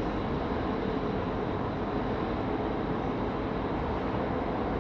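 A ferry under way: a steady engine drone with a faint, constant hum, unbroken throughout.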